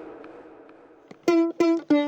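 A wash of noise fading away, then about a second in a ukulele starts plucking the same note over and over, about three times a second.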